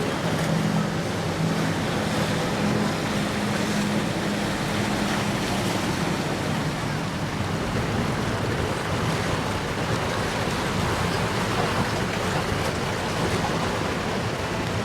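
Steady rush of surf and wind, with a boat's engine droning low underneath for the first five seconds or so before it fades away.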